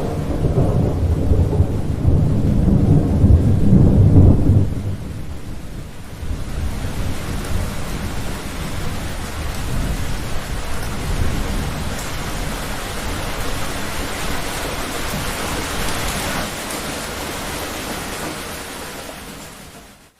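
Thunderstorm: a long, loud rumble of thunder for the first five seconds or so, giving way to the steady hiss of heavy rain that fades down and cuts off at the end.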